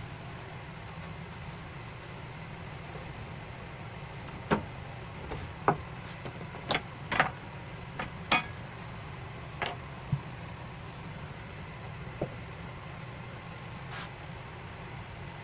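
About ten irregular sharp clicks and knocks, hard objects striking one another, over a steady low hum.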